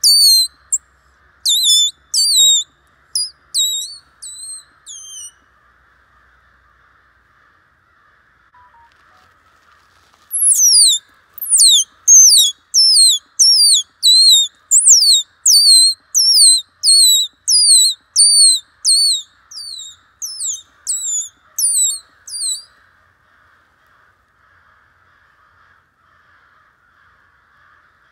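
Bird calling: short, high-pitched calls that each drop sharply in pitch, about two a second. They come in a bout over the first few seconds and a longer, louder run from about ten to twenty-three seconds in.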